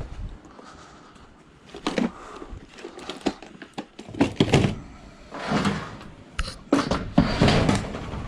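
A scrap washing machine being heaved into the back of a van: a run of irregular metal knocks, thuds and scrapes, quiet at first and loudest in the second half.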